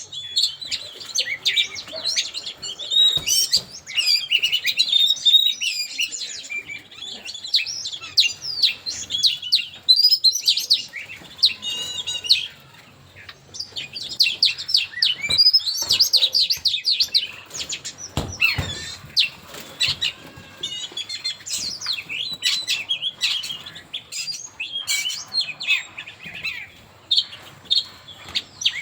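Songbird singing a long, fast run of high chirps and twittering phrases with only brief lulls, typical of a bird-call lure recording. There is a low thump about 18 seconds in.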